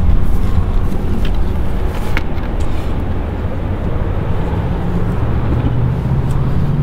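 Steady low rumble of a motor vehicle engine running close by, with a deeper hum that grows stronger near the end.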